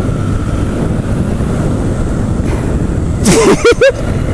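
Motorcycle riding noise with wind rushing over the microphone, then several quick horn beeps in a row about three seconds in.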